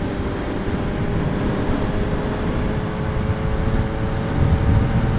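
Yamaha MT-09 three-cylinder engine running steadily at cruising speed through an Akrapovic carbon full exhaust, with no revving, mixed with wind rush on the microphone.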